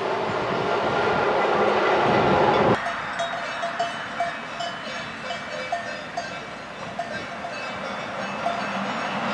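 An AB Ge 4/4 electric locomotive hauling passenger coaches runs past with a steady rumble of motors and wheels, which cuts off suddenly about three seconds in. The train is then heard at a distance, with short, scattered ringing tones, and grows louder toward the end as it approaches.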